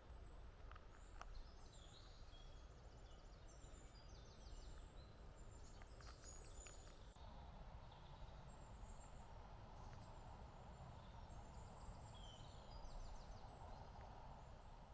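Faint birdsong: several small birds chirping and trilling in short phrases, over a low steady outdoor background hum.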